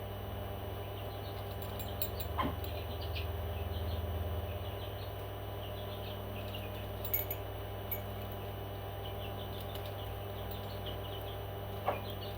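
Pet parrots chirping in short, high notes over a steady hum, with a couple of sharp clicks, one about two seconds in and one near the end.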